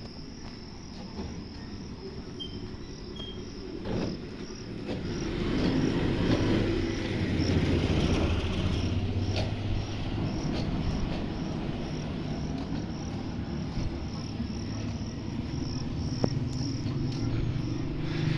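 Motorcycle engine rumbling, building up about five seconds in and running on steadily. A high chirp repeats evenly throughout, about one and a half times a second.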